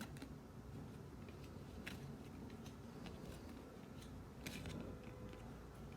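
Basketball trading cards being handled and flipped through: faint clicks and a short scraping slide of card stock about four and a half seconds in.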